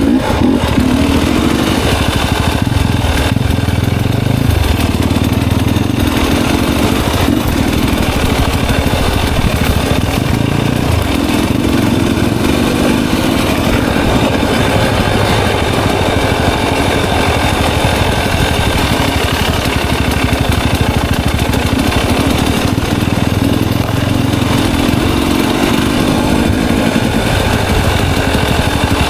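Enduro dirt bike engine running continuously, its note rising and falling gently with the throttle as the bike rides a trail.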